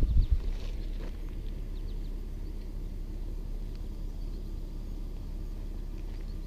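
Jeep Cherokee's 4.0 straight-six engine idling with a steady low rumble. A brief low thump comes right at the start.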